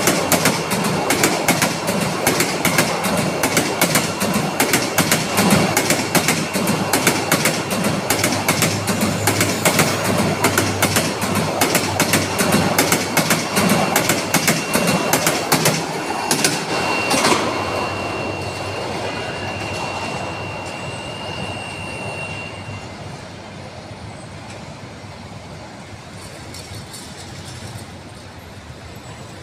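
Suborno Express intercity train coaches passing close by, their wheels clattering rapidly over the rail joints, with a thin steady high whine. The clatter fades out about two-thirds of the way through as the last coach goes by, and the whine stops a few seconds later.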